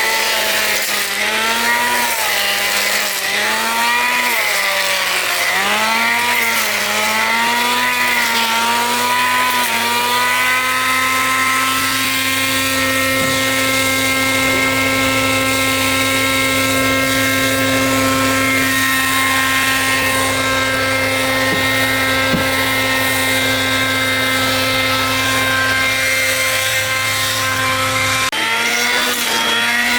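Power tool motor running at speed with a steady whine. For about the first ten seconds its pitch drops and recovers every second or two as it is loaded, then it runs steadily, and near the end the drops under load return.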